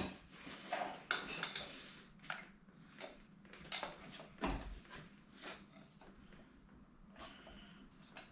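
Scattered light knocks and clinks of hand tools and small metal engine parts being handled, the loudest about four and a half seconds in, growing sparser near the end.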